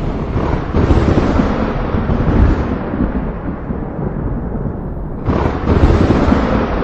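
Thunder rumbling and rolling, with a fresh, louder crack of thunder breaking in about five seconds in and rolling on.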